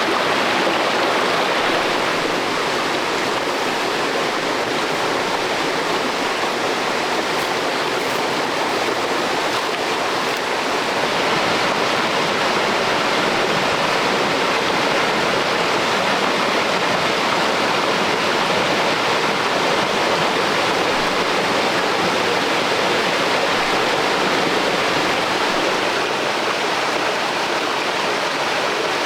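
Stream water rushing steadily, a loud even hiss of running water.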